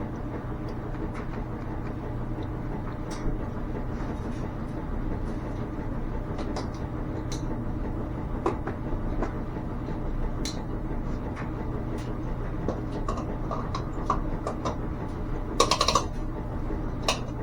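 Smoke machine's air pump running with a steady hum during a smoke test for a small vacuum leak, with scattered light clicks and knocks and a short rattle of clicks near the end.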